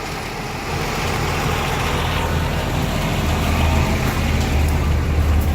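Carrier Supra 644 truck refrigeration unit running: a steady low engine drone with a broad hum above it, a little louder from about a second in.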